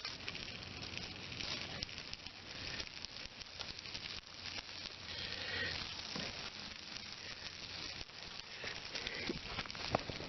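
Steady sizzling and fine crackling from a pan of food frying in butter over a small wood fire in a twig stove.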